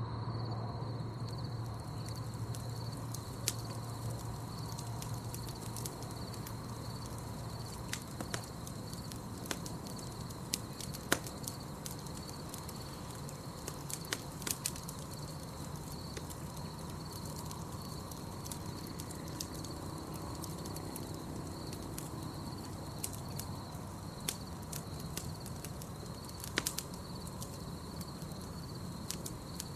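Campfire burning with a low steady rumble and scattered sharp crackles and pops, over a steady high, pulsing chirring of night insects.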